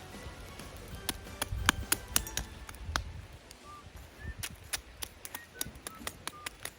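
Wood campfire crackling, with irregular sharp pops and snaps and a few short, high chirping sounds.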